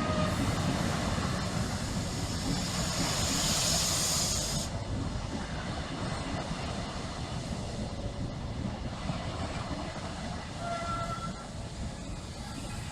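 Electric locomotive-hauled passenger train with a Mark 3 driving van trailer leading, standing at or easing into the platform with a steady low rumble. A loud hiss of air comes from the train for about two seconds and cuts off sharply about five seconds in.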